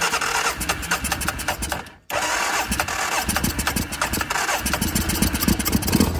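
ATV engine cranking on its electric starter, with the battery boosted by a jump pack, in a fast even rhythm. It stops briefly about two seconds in, then cranks again, the beats growing louder near the end.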